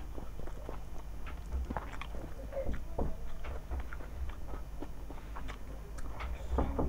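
Close-up chewing and wet mouth clicks from a person eating rice and curry, mixed with the soft squish of fingers working rice and curry together on a plate.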